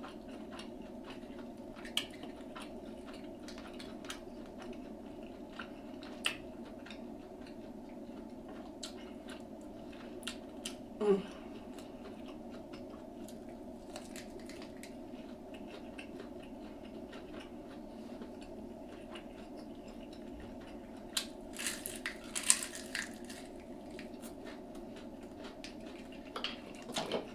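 Close-up eating sounds: quiet chewing with scattered wet mouth clicks over a steady low hum. A short hummed "mm" comes about eleven seconds in, and a few seconds of louder crackly noise come near the end.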